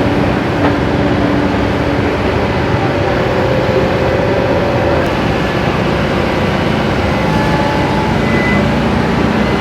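Excavator's diesel engine running steadily while it dredges the river, a continuous loud noise with a faint hum that wavers in pitch.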